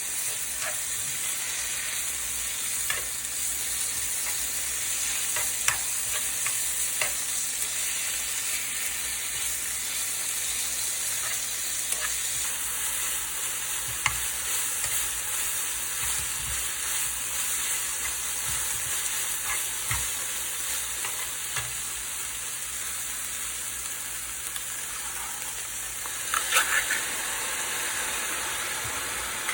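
Food sizzling steadily in a frying pan, with scattered clicks of a utensil against the pan and a short cluster of louder clicks near the end.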